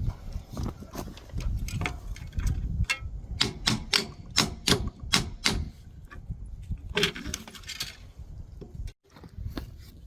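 Metal hardware being knocked and pried out of an old wooden utility pole with hand tools: a run of sharp metallic taps and knocks in the middle, then a short scraping rasp.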